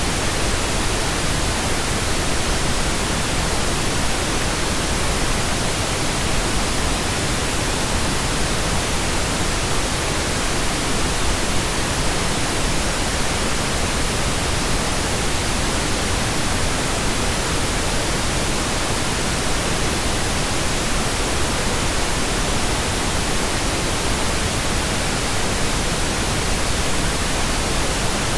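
Steady, unchanging pink noise: computer-generated hiss spread evenly across all pitches, fuller in the lows than white noise.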